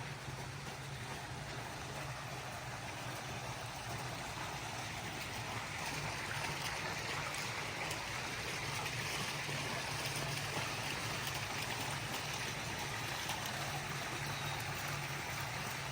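Steady rush of running water that grows a little louder about six seconds in, over a low steady hum.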